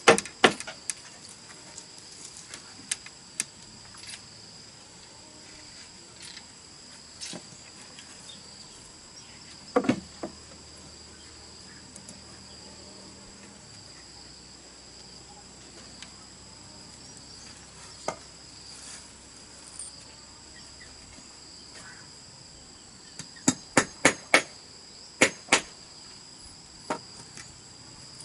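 Steady high-pitched drone of insects, with scattered sharp knocks of hand-tool work on bamboo, then a quick run of about six strikes near the end.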